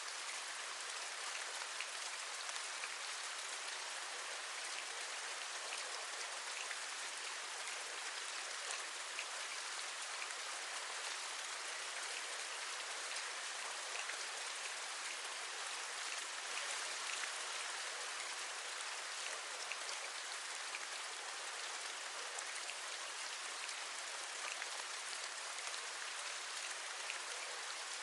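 Steady rain, an even hiss with many small drop taps scattered through it, as of raindrops tapping on a window.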